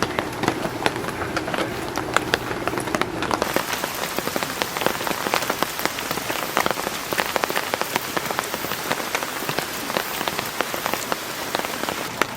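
Heavy rain falling steadily, with many sharp, close drop impacts pattering on a surface. A faint low hum underneath stops about three seconds in.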